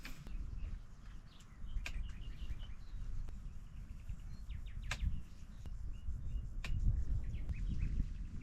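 Short bird chirps over a low rumble, with a few sharp knocks about two, five and six and a half seconds in.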